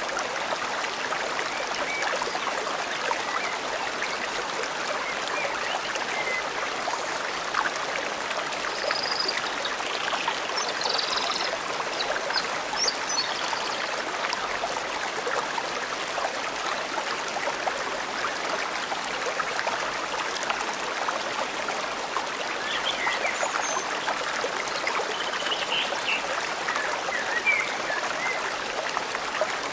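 A forest stream flowing steadily over rocks, with a few faint bird chirps now and then.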